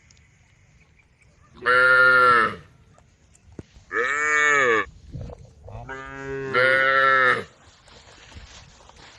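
Cows mooing to the herd: three loud calls of about one to one and a half seconds each, the second rising and then falling in pitch, the third the longest.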